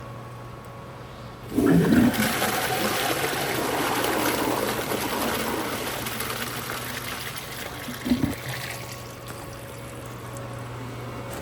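1978 American Standard Glenco wall-hung toilet flushed by a Sloan Regal flushometer: a sudden loud rush of water about a second and a half in that slowly eases off over the next several seconds, with a short thump about eight seconds in.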